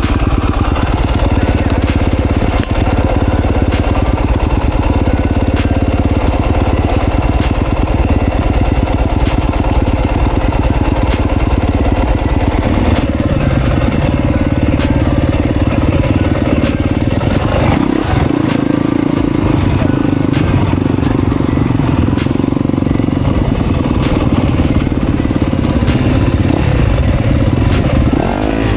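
Dirt bike engine running under way, its note shifting with the throttle about halfway through and again a few seconds later.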